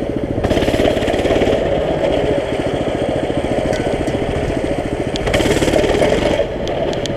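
Small mini bike engine running, with a steady rapid beat, growing louder twice for about a second each as the throttle opens.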